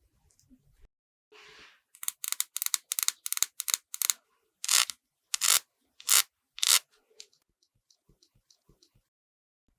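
Makeup brush scratching over a watermelon's hard rind while blending thick cream: a quick run of about five short strokes a second, then four slower, longer strokes, then a few faint taps.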